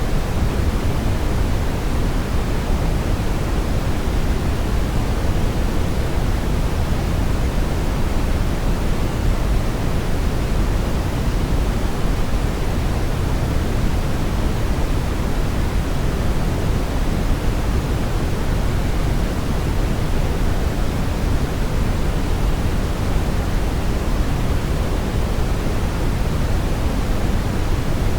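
Synthetic brown noise: a steady, deep rushing hiss, strongest in the low end and falling away toward the highs, unchanging throughout.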